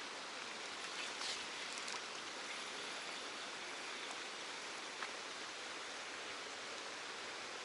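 Steady rushing hiss of flowing water, with a few faint clicks between one and two seconds in and one more about five seconds in.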